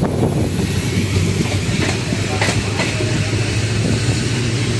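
Passenger train running along the track, heard from on board: a steady rumble and rattle of the wheels on the rails, with a few faint clicks about two seconds in.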